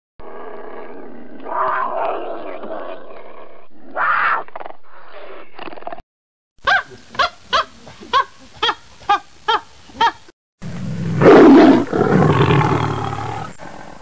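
A lion roaring and grunting, with louder swells about 2 and 4 seconds in. Then a chimpanzee calls in a quick run of about nine sharp hoots. Near the end a tiger gives a loud roar that fades away.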